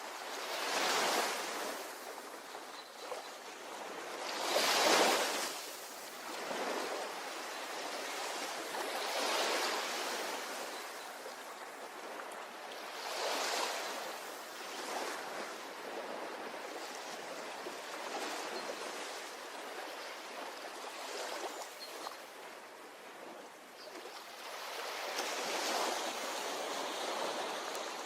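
Ocean waves breaking and washing on a shore, a hiss of surf that swells and ebbs, with the biggest wave breaking about five seconds in.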